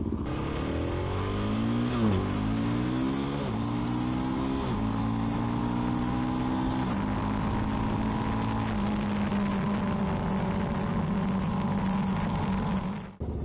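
Suzuki DR-Z400S single-cylinder four-stroke engine accelerating through the gears, its pitch climbing and then dropping at each upshift about two, three and a half and five seconds in, then running at a steady cruise. The sound cuts off just before the end.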